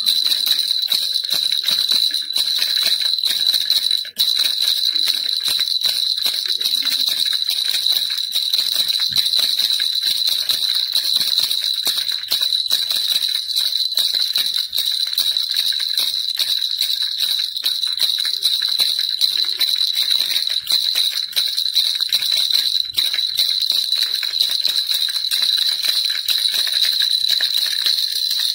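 Baby rattle (kilukiluppai) shaken continuously and rapidly, a dense jingling with a bright steady ring, broken only by a brief drop about four seconds in.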